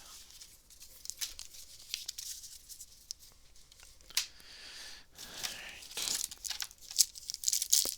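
A sealed trading-card booster pack being torn open, its wrapper crinkling and tearing in irregular crackles that grow louder about six seconds in.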